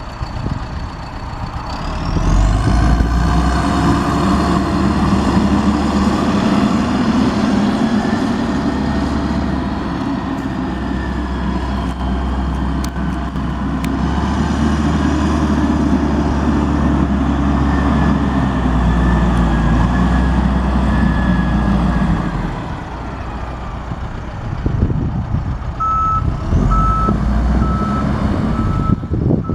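John Deere 410J backhoe's four-cylinder turbo diesel running. It revs up about two seconds in, holds, then eases back near the end. A steady beeping backup alarm starts near the end as the machine reverses.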